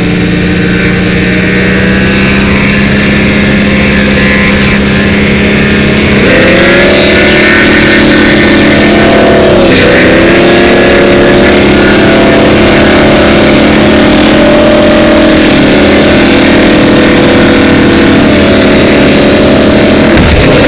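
Oldsmobile Cutlass engine held at high revs in a burnout, the rear tire spinning on the ground. The revs step up about six seconds in, sag briefly and recover a few seconds later, then hold steady until the sound drops off suddenly at the very end, as the tire blows apart.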